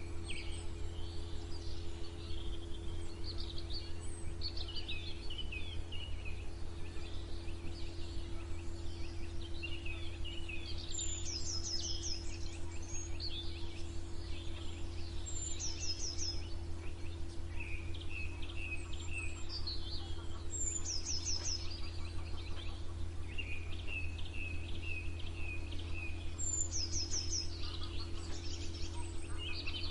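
Several songbirds singing in a dawn chorus: varied chirps and trills, with one high falling phrase repeated every four to five seconds. A steady low hum runs underneath.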